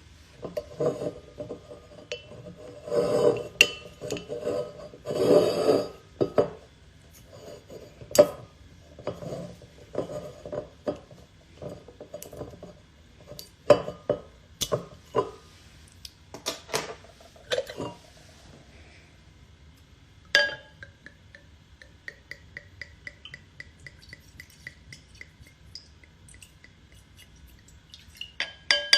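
Clinks and knocks of hard objects being handled, like dishes or glassware, at irregular intervals. About two-thirds of the way in there is a single sharp knock, then a run of quick, even light ticks.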